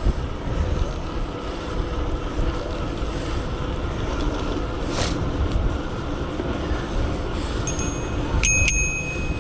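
Wind buffeting the microphone and tyre noise while riding a bike, with a bicycle bell rung twice near the end, its ring hanging on briefly.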